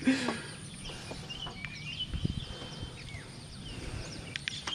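Small birds chirping and calling over a low background hum, with short rising and falling notes and one briefly held whistle; a soft low thud about two seconds in.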